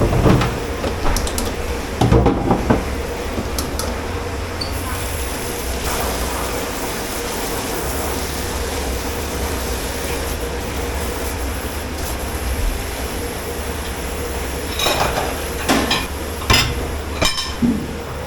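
Dishes and cutlery clattering in a commercial kitchen dish pit over a steady low machine rumble: a clatter at the start, another about two seconds in, and several more near the end.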